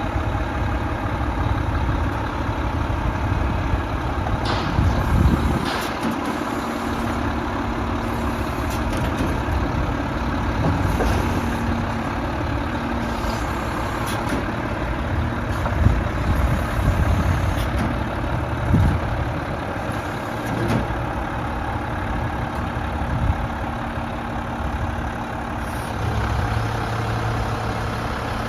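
Mack MP7 inline-six diesel of a Mack LEU613 garbage truck running steadily, with scattered sharp clicks and knocks. Near the end a deeper steady drone sets in.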